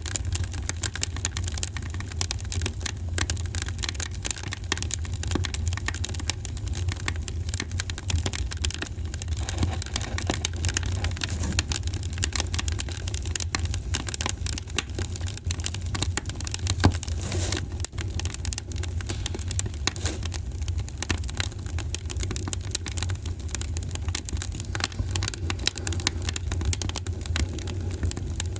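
Wood fire in a fireplace crackling: dense, irregular snaps and pops over a steady low rumble of the flames.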